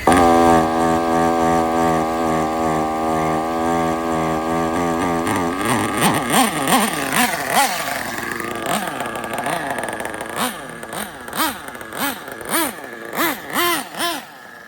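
RB CE nitro engine of an RC drag car, a small two-stroke glow engine, starting loud and holding high revs at a steady pitch for about five seconds, then swinging up and down in pitch again and again with pulsing loudness, growing quieter toward the end.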